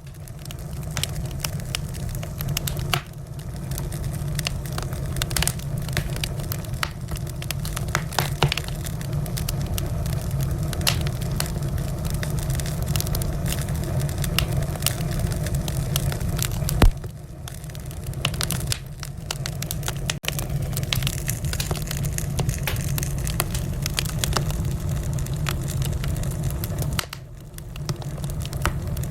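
Wood fire burning in a fireplace, crackling with frequent sharp pops over a steady low rumble of the flames. One pop about halfway through stands out as the loudest.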